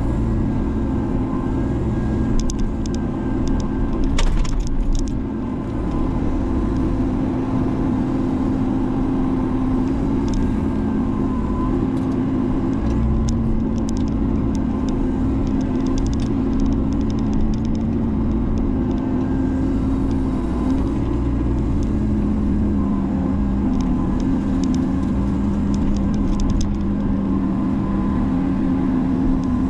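Menzi Muck spider excavator's diesel engine running steadily, its pitch shifting slightly now and then, with scattered clicks and knocks, the loudest about four seconds in.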